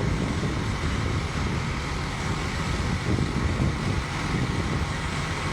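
Fire truck engine running steadily at a working fire scene, a low engine drone with an even hiss over it.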